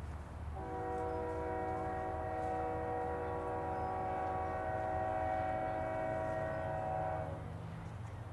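Freight locomotive air horn sounding one long steady blast, several notes together, over the low rumble of the train; the horn cuts off about a second before the end.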